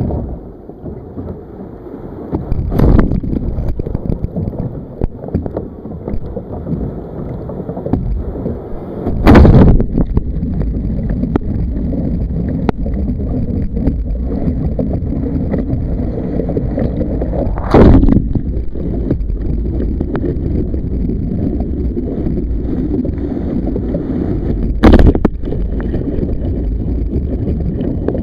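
Wind buffeting the microphone and water sloshing around a sea kayak, broken by four heavy thumps spaced several seconds apart.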